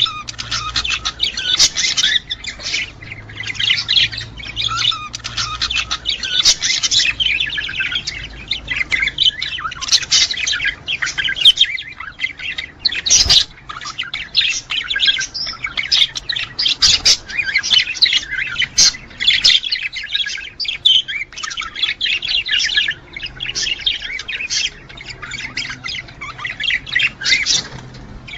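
Budgerigars chattering and warbling: a dense, continuous run of quick chirps and squawks, the breeding-season warble of male budgies.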